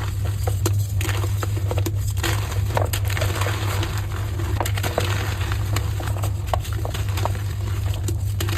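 Soft dyed gym chalk being crushed and crumbled, a stream of small crackles and crunches over a steady low hum.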